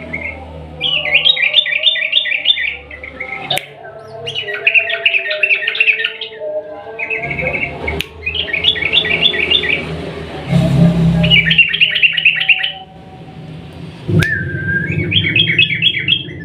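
Yellow-vented bulbul (trucukan) singing in long, fast trills: about five bursts of rapid chattering notes, each lasting roughly a second, with a few sharp clicks between them.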